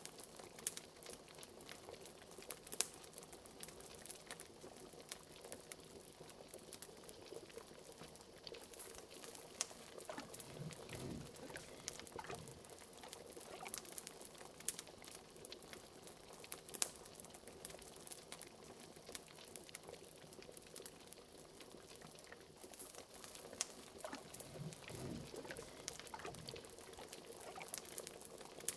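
A cauldron of liquid bubbling, with a fireplace crackling: a steady scatter of small pops and clicks, and two deeper gloops that drop in pitch, about ten and twenty-five seconds in.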